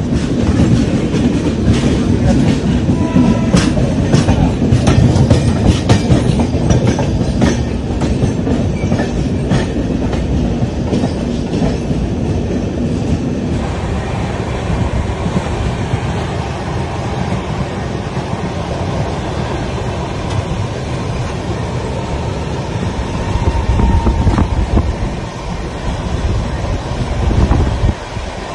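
Passenger train running at speed, heard from the coach doorway: wheels clicking and clattering over rail joints and points. About halfway through, the clicks give way to a steadier rumble, with a few louder swells near the end.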